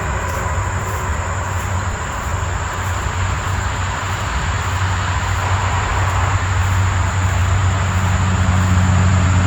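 A steady low rumble of an engine or machine running, with a thin steady high-pitched whine above it.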